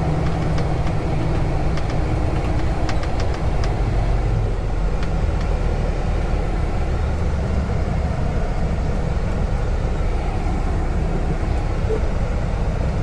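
Semi truck's diesel engine running with a steady low rumble, with a few faint clicks.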